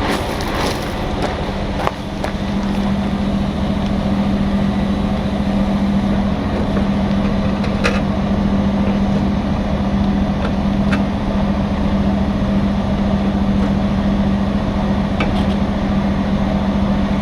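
Heavy truck's diesel engine idling steadily, with a few light metallic clicks over it.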